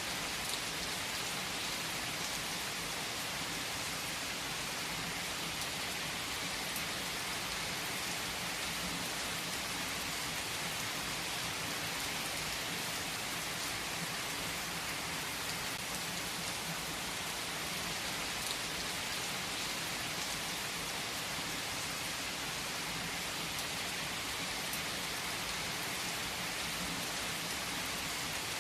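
Steady rain falling on a surface: an even, unbroken hiss with a few faint clicks scattered through it.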